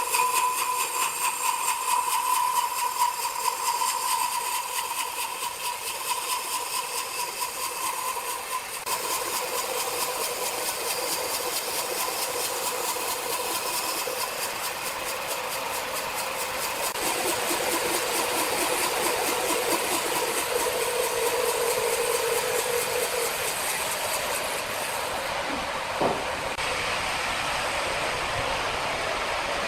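Sawmill machinery running: a steady mechanical whine over a noisy hum, changing abruptly a few times. There is a single sharp knock near the end.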